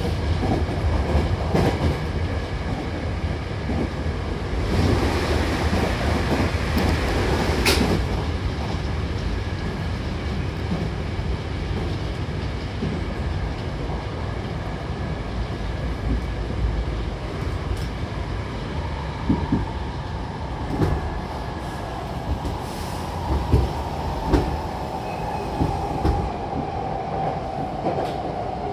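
Hankyu Takarazuka Line electric commuter train running, heard from inside the carriage: a steady rolling rumble with wheel clicks over rail joints, the clicks coming thicker past the middle. Near the end a motor whine falls slowly in pitch as the train slows for the station.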